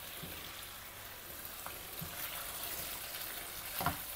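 Chicken in sambal terasi simmering and sizzling in a wok, a soft steady hiss, with a few faint scrapes of the spatula stirring it.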